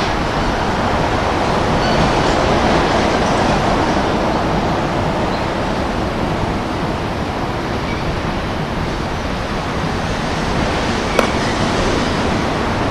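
A steady, loud rushing noise with no pitch to it, and one sharp crack about eleven seconds in.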